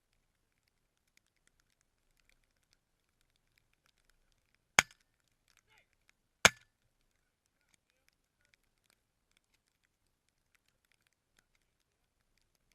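Two shotgun shots about a second and a half apart, each a sharp report with a brief tail, fired at Canada geese during a hunt.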